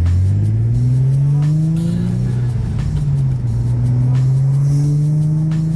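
Infiniti G37 sedan's V6 engine and exhaust accelerating on the road, the pitch rising for about two seconds, holding steadier, then climbing again near the end.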